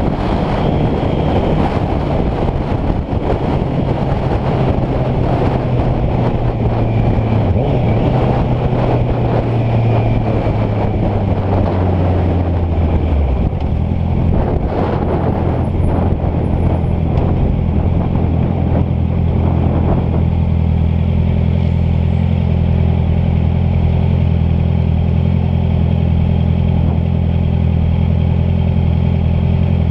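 Honda CBR650F inline-four motorcycle engine running under rushing wind noise. Its pitch drops about halfway through, and about two-thirds of the way in the wind noise falls away, leaving the engine running steadily at a low, even pitch.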